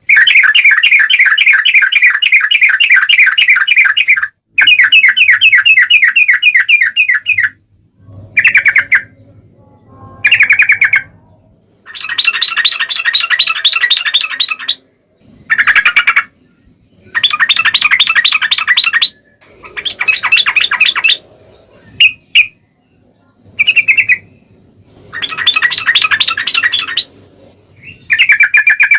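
Sooty-headed bulbul (trucuk) calling: loud, fast chattering trills in bouts of one to four seconds, with short single phrases between them.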